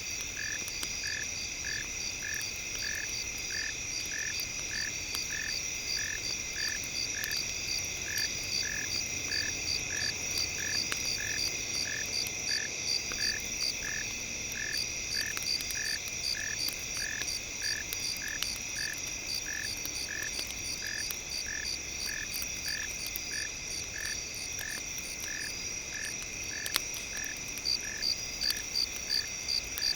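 Night nature ambience: a frog croaking in an even rhythm of about two calls a second over a steady high insect drone, with occasional faint campfire crackles.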